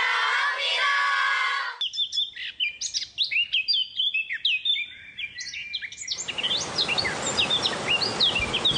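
A sung passage ends about two seconds in. It gives way to many birds chirping, with quick, high calls that rise and fall. About six seconds in, a steady hiss joins the birdsong.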